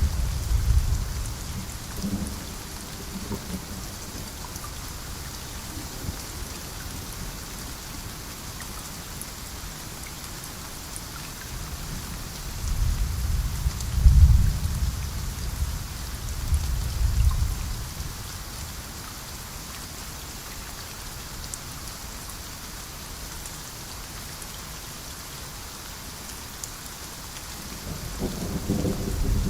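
Steady rain with low, rolling thunder: a rumble at the start, two more around the middle, and another building near the end.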